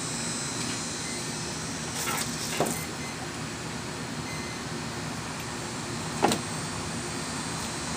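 A few sharp clicks and knocks, the loudest about six seconds in, over a steady background hiss, as battery plugs are connected to the electric ducted fan motors of a large RC model airliner.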